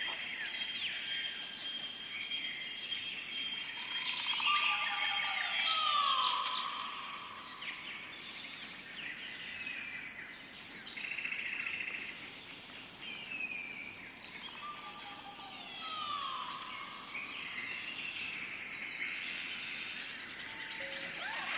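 Several birds chirping and calling, with a few falling calls, over a steady high-pitched tone.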